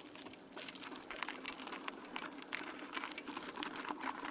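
Faint, quick, irregular light clicking and ticking over a low steady hum.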